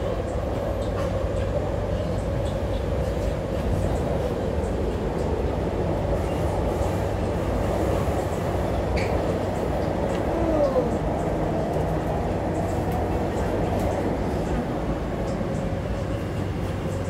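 Interior of an MTR West Rail Line C-Train electric multiple unit running at speed: a steady low rumble of wheels on rail with an even motor whine held throughout. About ten seconds in, a short falling tone passes and the level briefly rises.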